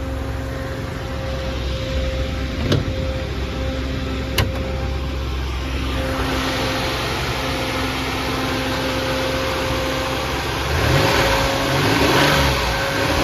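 Warm Maserati Ghibli GT engine idling steadily at about 850–900 rpm, with two sharp clicks early on. Near the end the throttle is blipped a few times, each rev rising and falling.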